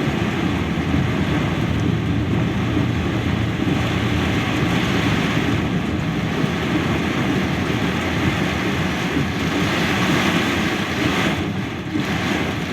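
Heavy downpour: a steady, loud rush of rain.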